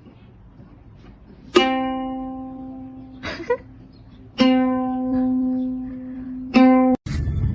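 Three single notes plucked on a string instrument, all at the same pitch and a couple of seconds apart, each ringing out and slowly dying away.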